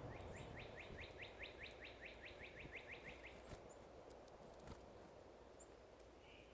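A bird singing a fast trill of about twenty short rising notes over roughly three seconds, faint. A fainter call follows near the end.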